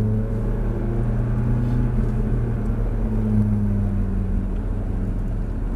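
Ferrari engine running steadily at moderate road speed, its note shifting up slightly now and then, with road and wind noise heard from inside the cabin.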